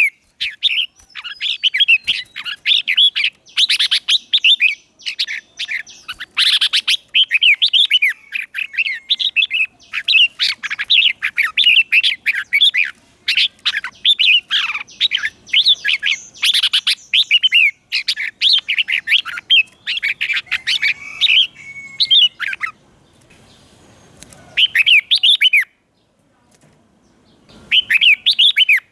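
Red-whiskered bulbul singing its excited challenge song: quick, bright warbled phrases one after another, with a short break near the end. It is a lure bird's song, used to call in wild bulbuls and provoke them to sing back.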